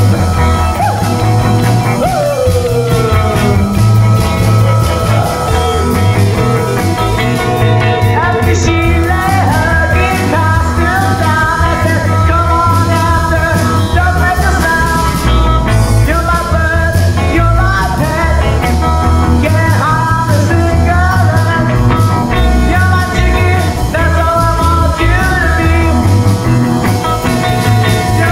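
Rock band music: electric guitars, bass and drums on a steady beat, with a lead melody line whose pitch bends and slides above them.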